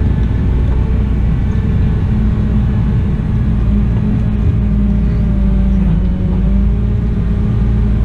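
Cat 972M XE wheel loader's diesel engine and drivetrain running steadily: a low rumble with a steady hum that drifts slightly in pitch.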